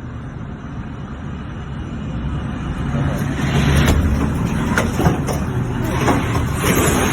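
Roaring wind of a nearby tornado, with a deep rumble that grows louder from about halfway in, and several sharp knocks and rattles over it.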